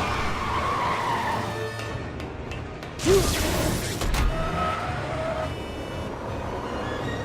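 Film soundtrack of a car chase: a car driving with tyres skidding, under dramatic music. A sudden loud hit comes about three seconds in, and a smaller one about a second later.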